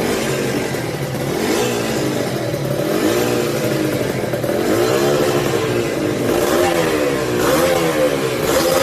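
Honda NSR SP single-cylinder two-stroke motorcycle engine, with an aftermarket exhaust, being blipped through repeated throttle revs. Each rev rises and falls back, about one a second, coming quicker near the end.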